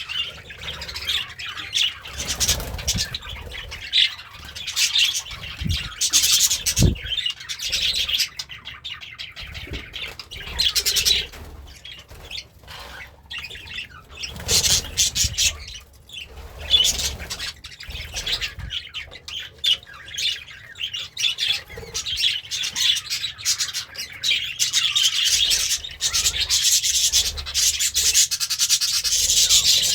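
Budgerigar chattering and warbling, a continuous stream of quick chirps and squawky notes, with a few soft low thuds in between.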